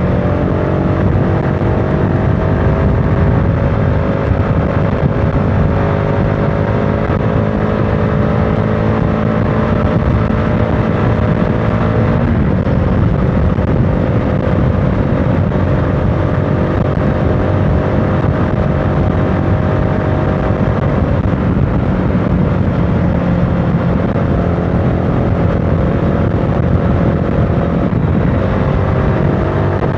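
CFMOTO motorcycle engine running under way, heard from on the bike over a heavy rush of wind and road noise. The engine pitch creeps slowly upward, drops suddenly about twelve seconds in, and drops again near the end before climbing.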